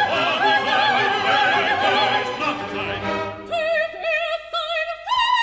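Operatic singing with orchestra: several voices sing together over the orchestra, then a soprano carries on alone with a wide vibrato. About five seconds in she leaps to a loud, held high note.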